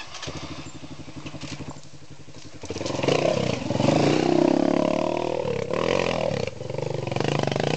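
Dirt bike engine starting up and running at a low, steady speed. From about three seconds in it is revved louder, with its pitch rising and falling, dipping once briefly and then revved again near the end.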